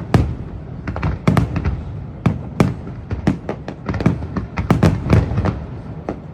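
Aerial fireworks bursting in quick, irregular succession, several loud bangs a second, each with a short rumbling echo.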